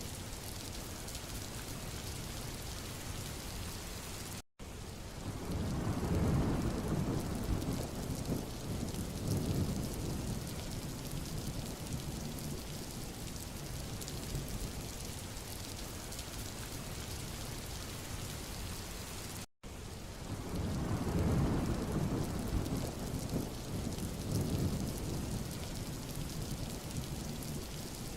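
Steady rain falling on a road. The sound cuts out for an instant twice, about fifteen seconds apart, and each time a low rumble swells up for several seconds and fades back into the rain.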